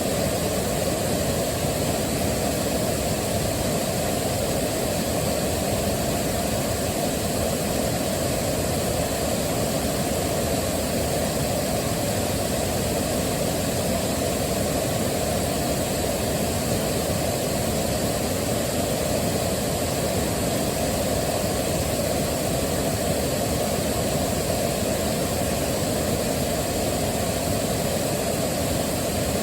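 Waterfall: a steady rush of falling water, heaviest in the low and middle range, with no changes or breaks.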